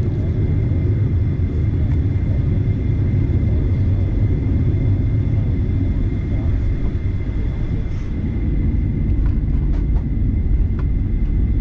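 Cabin noise of a Boeing 737-900ER on the ground: a steady low rumble from the idling CFM56-7B jet engines with a steady high whine over it. A few faint clicks near the end.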